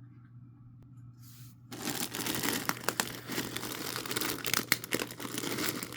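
Packaging being torn open and crinkled by hand as a package is unwrapped, a dense run of crackling with sharp clicks that starts nearly two seconds in.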